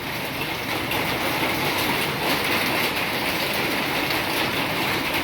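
Steady rain falling: an even hiss filled with fine, dense patter of drops.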